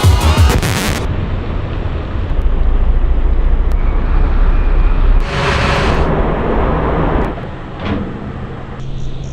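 Music stops about a second in, giving way to a steady low rumble like a vehicle running, with a short rush of hissing noise about halfway through.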